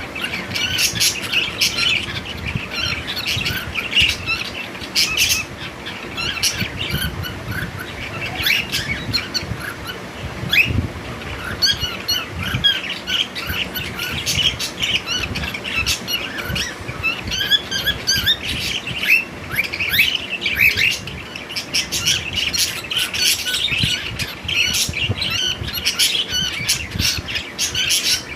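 Cockatiel calls: a continuous run of short chirps and squawks.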